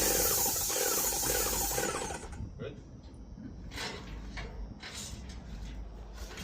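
Paint sprayer spraying: a loud hiss with a regular pulsing underneath, cutting off about two seconds in. Scattered light knocks follow.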